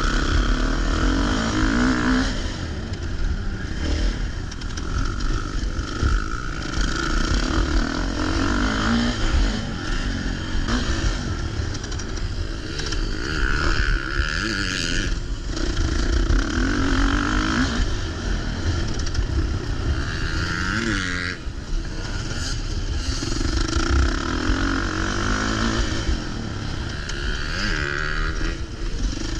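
Motocross dirt bike engine revving up and dropping back over and over as it is ridden around the track, heard on board with heavy wind rumble on the microphone.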